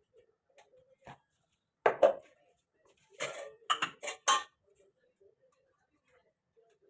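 Dishes and cutlery clinking and clattering as food is served: a few short sharp knocks, the loudest about two seconds in and a quick run of them between three and four and a half seconds in.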